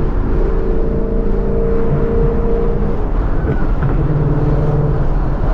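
2014 Mustang GT's 5.0-litre V8 and exhaust running under steady throttle, holding an even note; about three seconds in the note falls away and settles lower.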